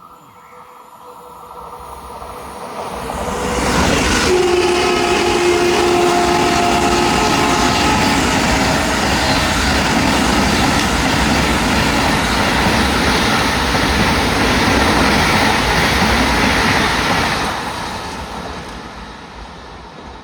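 An Indian Railways train passing at speed: its rumble and wheel noise build over the first four seconds, run loud and steady, then fade away near the end. A steady horn sounds for about three seconds as it arrives.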